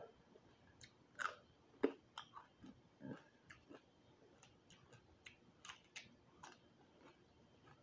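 Close-miked chewing of crispy roasted quail: soft, irregular clicks and small crunches, with a bite of romaine lettuce near the end.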